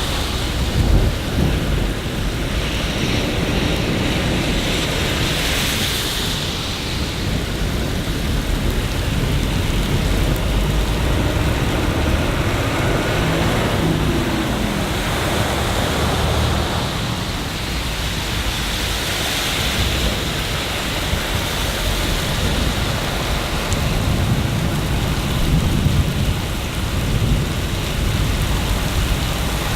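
Steady rain falling on city surfaces, an even hiss, with low rumbles swelling up underneath now and then.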